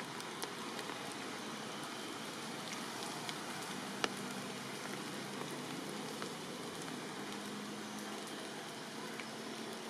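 Steady rain falling: a constant hiss with scattered drop taps, and one sharper tap about four seconds in.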